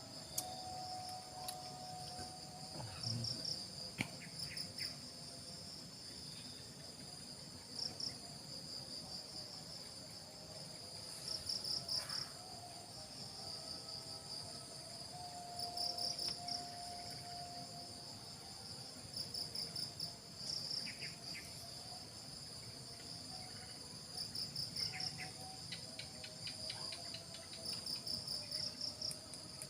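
Chorus of crickets and other insects: a steady high trilling, with groups of louder pulsed chirps coming every few seconds.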